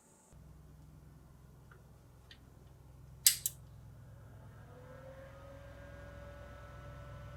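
NEC PC-9821An desktop computer powering up: a low hum from the power supply and fan starts suddenly, a sharp click comes about three seconds in, then a whine rises in pitch and settles to a steady tone as a drive spins up.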